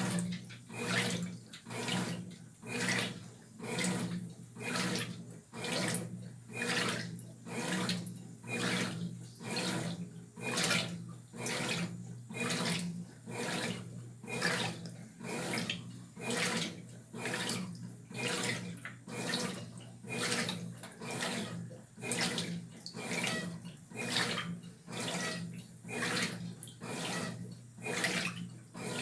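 Brastemp BWR12AB top-loading washing machine in its wash agitation: water and clothes swish rhythmically, about once a second, as the agitator turns back and forth, over a steady motor hum.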